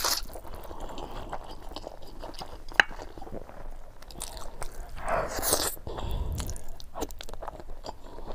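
Close-up eating sounds of a person eating spicy instant noodles and boiled eggs: wet chewing and mouth clicks throughout, one sharper click a little under three seconds in, and a louder breathy sound about five seconds in.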